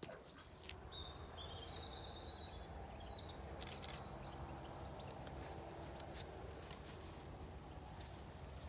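A bird calling a few times, thin high notes about a second in and again around three and a half seconds, with short high chirps near the end, over a steady low outdoor background rumble.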